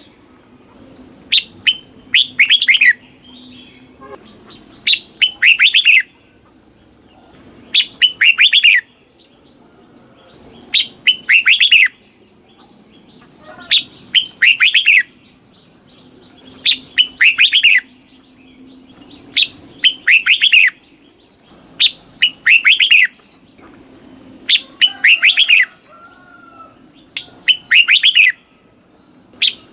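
Red-whiskered bulbul singing its short, bright phrase over and over, roughly once every three seconds. Each phrase is a quick run of clipped, falling notes.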